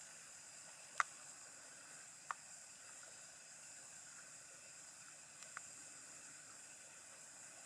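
Faint steady high hiss with three short, sharp clicks or snaps: the loudest about a second in, a second one a little past two seconds, and a fainter one after five seconds.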